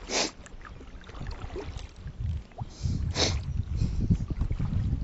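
Two short, sharp nasal sniffs, one right at the start and one about three seconds in, with a low rumbling on the microphone growing through the second half.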